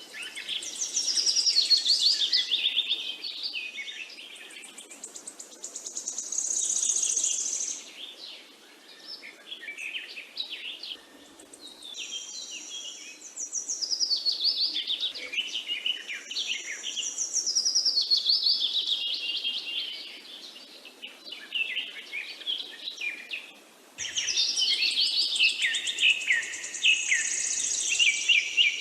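Songbirds singing: fast, varied, high-pitched warbling and trilled phrases, coming in long bouts with short lulls between them. A loud new bout starts abruptly near the end.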